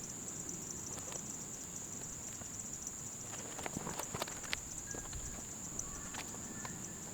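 Steady high-pitched insect trill, with a few light clicks and knocks about halfway through.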